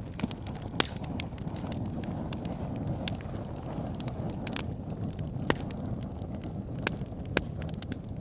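Wood fire burning in a fireplace: a steady low rumble of flames with irregular sharp crackles and pops from the logs, the loudest about a second in and several more in the second half.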